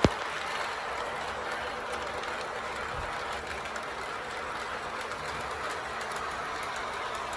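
Lionel O-gauge Burlington Northern RS3 diesel locomotive running laps with a few cars behind it: a steady rattling rumble of its wheels and motor on the track, with a sharp click right at the start and a dull thump about three seconds in.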